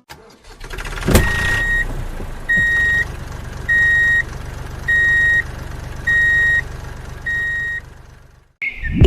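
A small toy tractor's motor starts with a click and runs steadily, while a high electronic beep sounds six times at even intervals. It all stops suddenly near the end.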